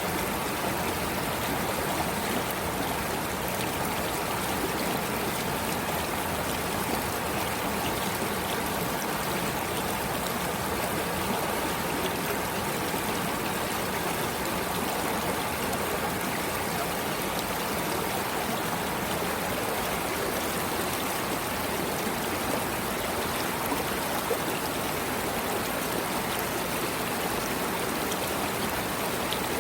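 Stream water flowing and trickling steadily, an even rushing with no break or change.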